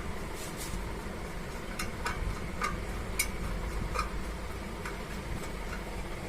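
Scattered light clicks and taps, irregularly spaced, over a steady low hum: small tools and parts being handled on a workbench during an amplifier repair.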